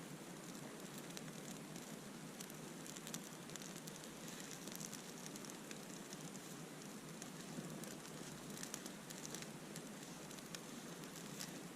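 Small campfire of damp wood burning, a steady faint hiss with scattered light crackles and pops.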